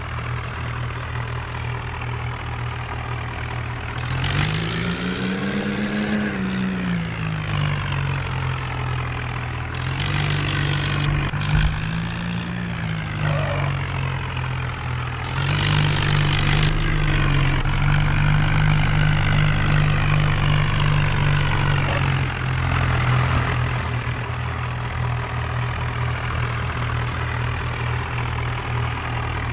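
Tractor diesel engines running, the revs rising and falling several times, with loud bursts of hiss lasting a second or two each, three times.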